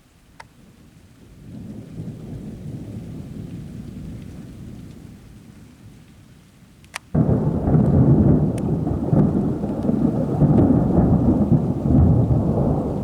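Thunder from a nearby storm: a rolling rumble builds and fades, then about seven seconds in a sharp thunderclap sets off a much louder, sustained rumble.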